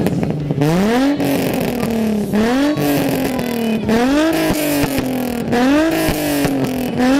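2004 Nissan 350Z's 3.5-litre V6, running through test pipes in place of its catalytic converters, revved again and again: about five quick climbs in pitch, each sinking slowly back. Crackles pop through the exhaust as the revs fall.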